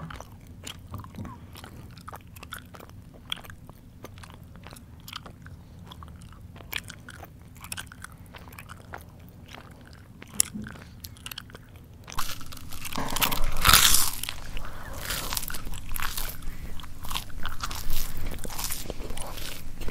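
Close-up chewing, mouth open: quiet, sparse wet clicks and smacks at first, then about two-thirds of the way in a louder run of dense crunching of crunchy food.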